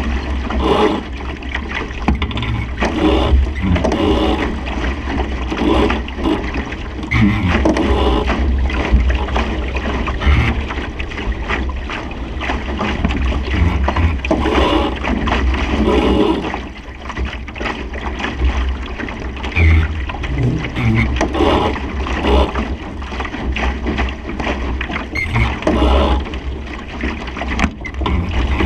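Wind buffeting the microphone in a deep rumble, with water rushing and splashing along the hull of a Supernova sailing dinghy under way in a strong breeze, surging every second or two.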